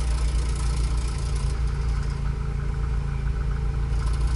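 Peugeot 206 rally car's engine idling steadily, heard from inside the cabin.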